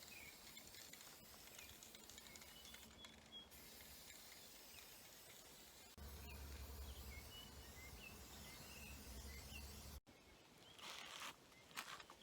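Quiet woodland ambience with faint, scattered bird chirps over a steady low hiss. The background changes abruptly twice. A few short bursts of hiss come near the end.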